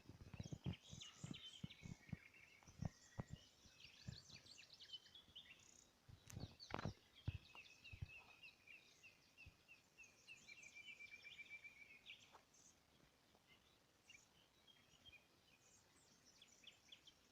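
Small birds chirping faintly, with a rapid trill of repeated notes from about seven to twelve seconds in. Scattered soft low thumps in the first half.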